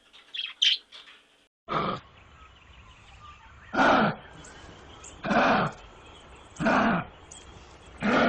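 A few short bird chirps, then an animal calling over and over: five short, loud calls about one and a half seconds apart.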